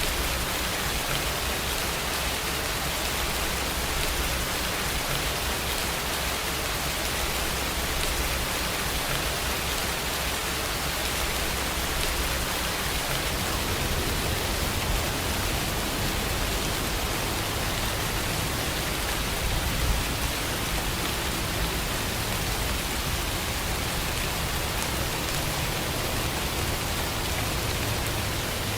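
Steady rain falling, an even hiss of drops that keeps on without a break.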